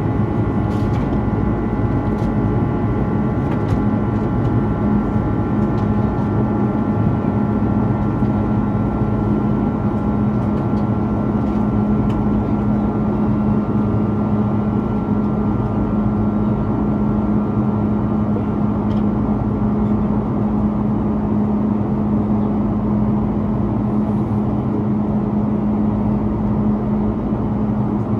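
Steady cabin drone of an Airbus A330-300 in flight, with its Rolls-Royce Trent 700 engines under climb power: a constant low hum over a rushing noise, and faint higher whines, one of which fades about two-thirds of the way through.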